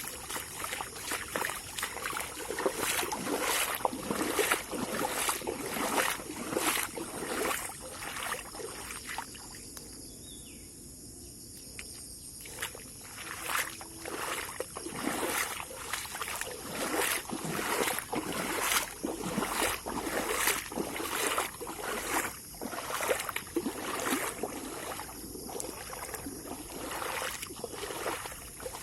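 Footsteps splashing on rain-soaked ground, about one to two steps a second, with a lull partway through, over a steady high insect chorus.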